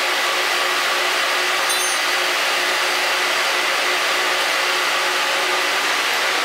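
A train running close by, a loud steady rushing noise with faint steady machine tones in it, sped up to double speed.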